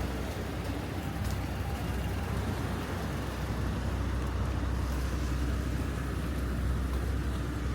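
Steady city street noise: a continuous low rumble of road traffic with a faint hiss above it, even throughout.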